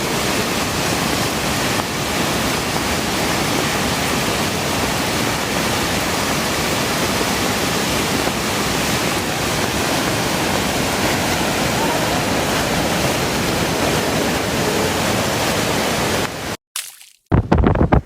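Steady, even rushing noise that stops abruptly about a second and a half before the end. After a short gap comes a brief loud burst of noise.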